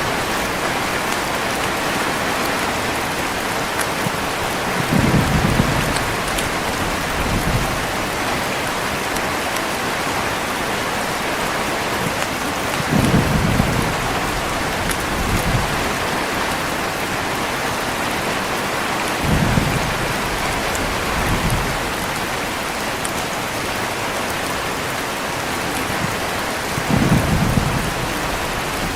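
Heavy rain falling steadily, with low thunder rumbles rolling in several times, the strongest about 5, 13, 19 and 27 seconds in.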